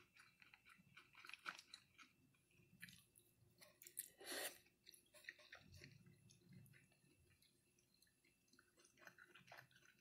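A person faintly chewing teriyaki chicken with the mouth close to the microphone: scattered small wet clicks and smacks, with one louder smack about four seconds in.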